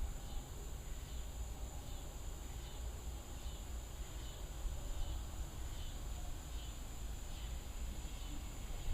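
Night insects, crickets and katydids, calling on a summer evening: a steady high buzz with a fainter chirp repeating about every three-quarters of a second, over a steady low rumble.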